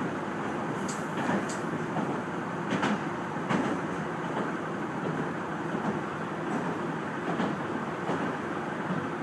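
Amagi Railway diesel railcar running at speed, heard from inside the car: a steady rumble of wheels on the rails, with a few sharp clicks in the first few seconds.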